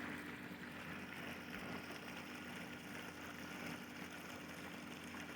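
Above-ground pool sand filter pump running with a steady hum, pulling water through a manual vacuum hose attached to its intake.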